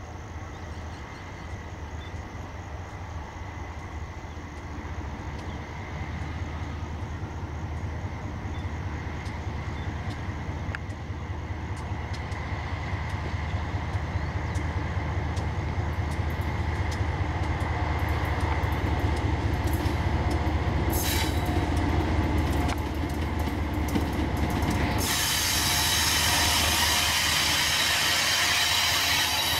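Diesel freight locomotives approaching on a curve, their low, steady engine rumble growing louder. Near the end the sound jumps suddenly to a loud rush of wheel-on-rail noise with squealing wheels as the lead units pass close by.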